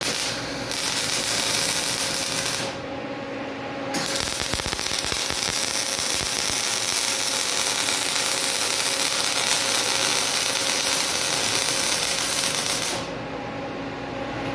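Welding arc crackling and hissing: two short welds, then one long steady bead of about nine seconds, as new body-mount brackets are welded to the car's frame.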